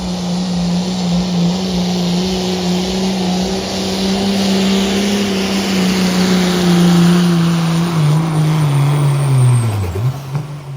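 Turbo diesel pickup truck engine held at high revs under heavy load while pulling a weight sled, with a thin high turbo whine over the exhaust. About eight seconds in, the engine note sags, then falls away steeply as the truck runs out of pull and the driver lets off.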